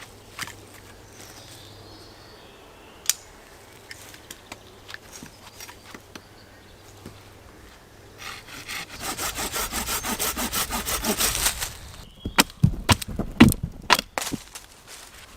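Hand saw cutting through wood with rapid, even back-and-forth strokes for about three seconds. Several sharp wooden knocks and cracks follow.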